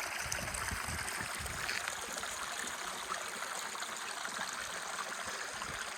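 Creek water running and trickling over rocks in a steady hiss, with some low rumbling in the first two seconds.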